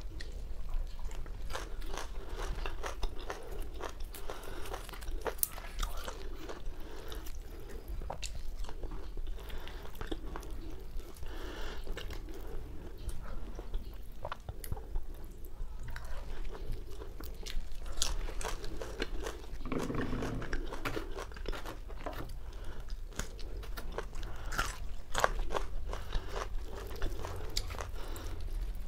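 Close-miked mukbang eating: chewing and crunching of whole roasted chicken and raw greens, with many sharp, irregular mouth clicks and smacks.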